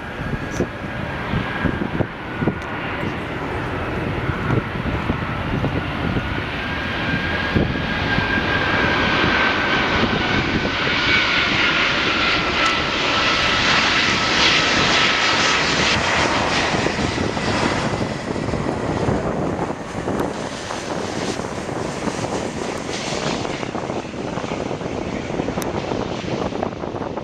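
Airbus A380's four turbofan engines passing on landing approach: a jet roar with a thin whine in it that sinks slightly in pitch, swelling to its loudest around the middle and then easing off.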